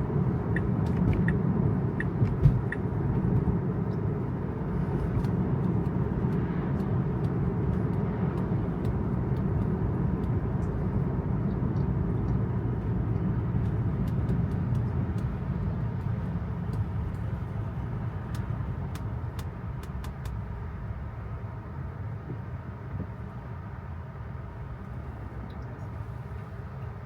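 Tyre and road noise of an electric Tesla on wet pavement, heard inside the cabin: a steady low rumble that gets quieter over the last third, with a few light scattered ticks.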